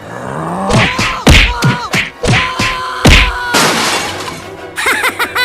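Cartoon crash sound effects over background music: a run of loud thumps and whacks with shattering, then a burst of hiss and some gliding tones near the end.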